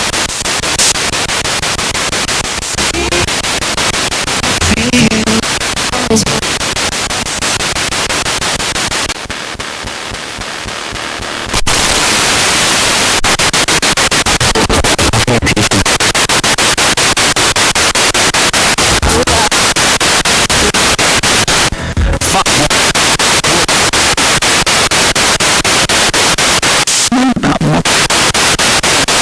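Spirit box radio sweeping rapidly through stations: a steady hiss of static chopped into quick, even steps, with brief scraps of broadcast voices and music breaking through. The static drops back about nine seconds in and returns louder a couple of seconds later.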